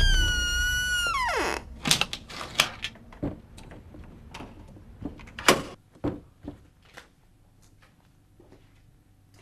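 A drawn-out tone that bends and then slides downward, ending about a second and a half in. It is followed by a run of sharp clicks and knocks from a door handle and latch being worked, the loudest about five seconds in, thinning out toward the end.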